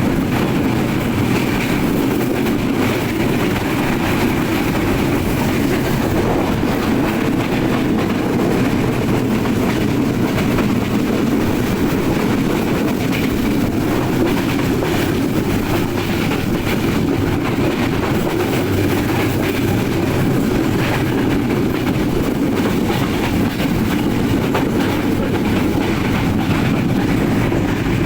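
Nilsagar Express passenger train running steadily on the rails, a continuous loud rumble of wheels on track.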